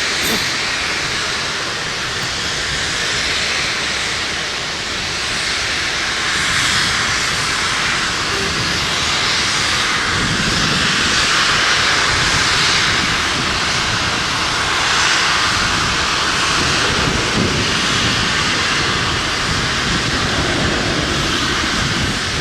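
Amtrak Cascades passenger train rolling past: a loud, steady rushing of wheels on rails that swells slightly now and then.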